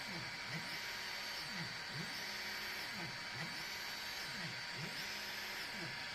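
EasyThreed K10 mini 3D printer running, its stepper motors whining in repeated falling and rising sweeps about twice a second as the print head moves back and forth, over a steady fan hiss.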